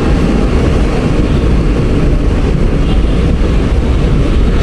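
Mumbai suburban local train running, a loud steady rumble of wheels and carriage heard from inside the coach.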